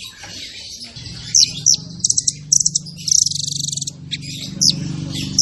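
Songbird singing a fast, dense song of sharp high chirps, quick whistles and rapid buzzy trills, over a low hum that starts about a second in.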